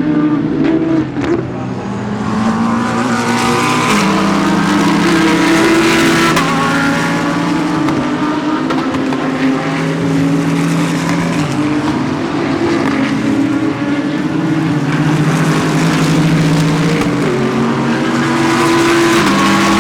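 Several GT3 race cars running past on track, their engines overlapping without a break, each engine note holding and then stepping in pitch through gear changes.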